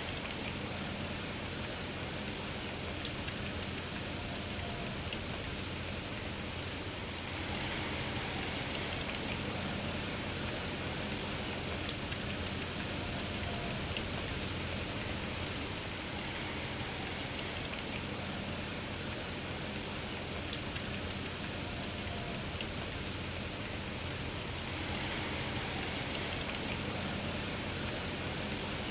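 Steady rain falling with a soft, even hiss, with sharp drops landing close by. Three drops stand out as loud ticks, several seconds apart.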